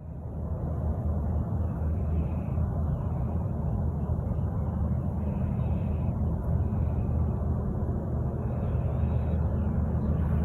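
A steady low rumble with faint bird calls over it, short high calls coming back every second or two.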